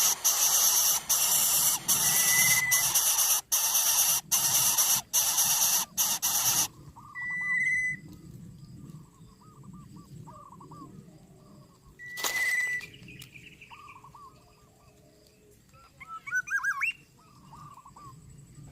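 Greater coucal nestlings giving a harsh, hissing begging noise in loud bursts with short breaks, which stops about a third of the way in. After that come softer bird chirps and a few short, high whistled notes.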